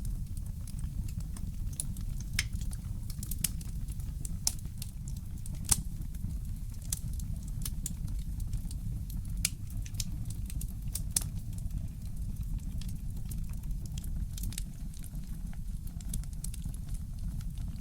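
Fireplace crackling: irregular sharp pops and snaps, a few of them louder, over a steady low rumble.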